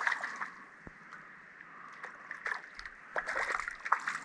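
Creek water running, with sloshing and splashing from a hooked trout being played in; the splashes come thickest in the last second or so.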